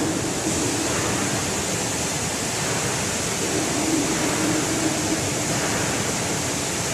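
Automatic screen washout booth running, its water jets spraying in a steady rushing hiss, with a faint low hum coming and going.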